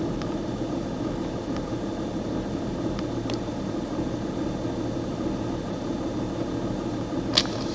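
BMW E46 330d's M57 common-rail straight-six diesel idling roughly. The owner traces the uneven idle to erratic high fuel-rail pressure, suspecting the pressure regulator, rail pressure sensor, high-pressure pump or wiring. A single sharp click sounds near the end.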